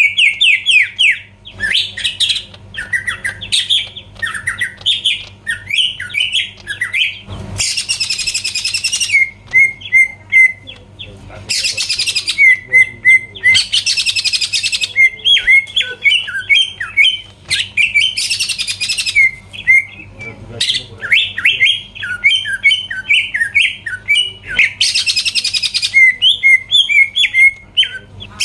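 Cucak ijo (green leafbird) singing in full song: fast runs of sharp, downward-slurred whistled notes. The runs are broken every few seconds by a loud, harsh, rasping burst about a second long.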